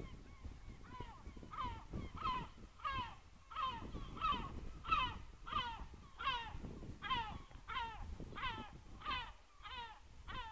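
A bird calling over and over: short, honking calls that slide down in pitch, about two a second, starting about a second in.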